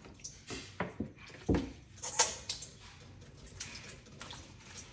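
Dishes and kitchen utensils being handled, a string of separate knocks and clinks in the first half, then quieter handling noise.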